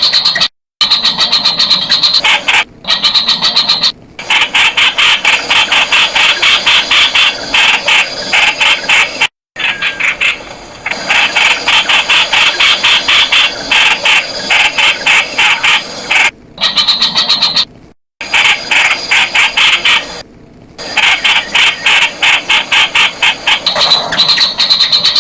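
Streak-eared bulbul (Pycnonotus blanfordi) calling: long runs of rapid, sharp, repeated notes, broken by a few short silent gaps.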